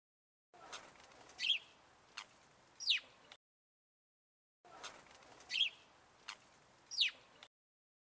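Bird calls: a short wavering chirp, a quick tick, then a sharp call sweeping downward in pitch. The same sequence comes again about four seconds later, an identical repeat with dead silence around each.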